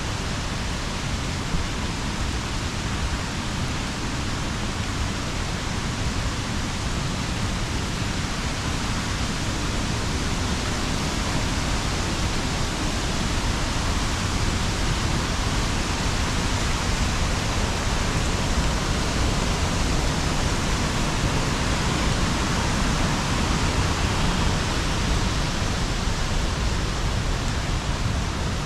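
Steady rush of water pouring over a small river waterfall, a dense even hiss that grows a little louder in the second half.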